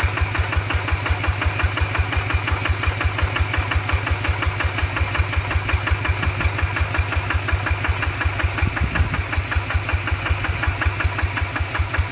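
Hand tractor's single-cylinder diesel engine running with a steady, even chugging beat.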